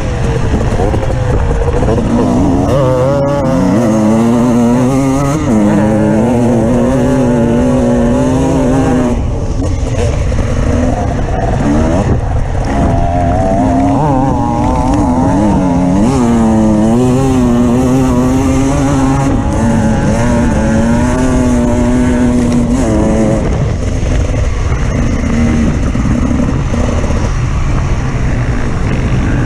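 Off-road vehicle engine running under varying throttle, its pitch rising and falling again and again, with the engine note fading into a rougher rumble near the end.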